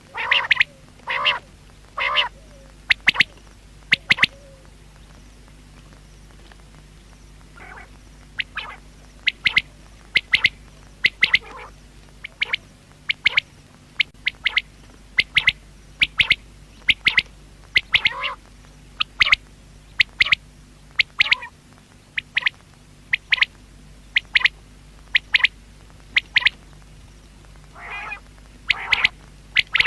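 Common quail (batair) calling: short, sharp notes repeated in groups, with quiet gaps of a few seconds between bursts, and a few lower, longer calls near the start and again near the end.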